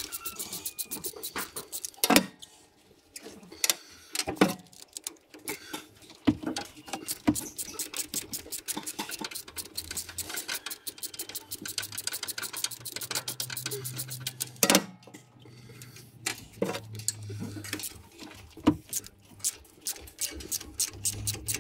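Metal hand tools clicking and clinking on the tractor's gear shift cover as its bolts are undone: long runs of quick ticking clicks, with a few louder metal knocks about two, four and fifteen seconds in.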